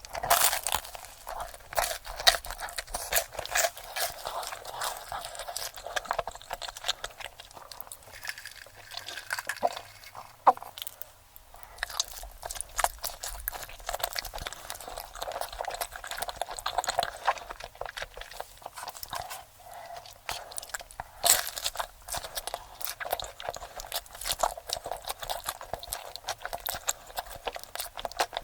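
Close-miked eating sounds, sped up: rapid, irregular crunching as crisp food is bitten and chewed.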